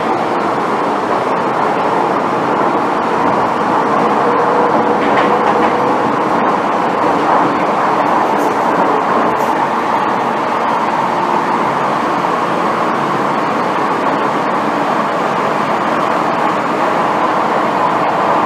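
Inside the car of an MTR M-Train (Metro-Cammell electric multiple unit) running along the track: a steady, loud rumble of wheels and running gear with a faint hum from the motors.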